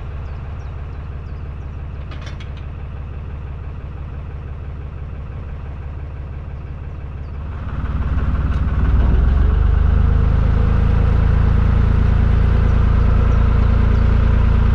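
Narrowboat diesel engine running steadily at low revs, then growing markedly louder from about eight seconds in and holding there, as when the throttle is opened.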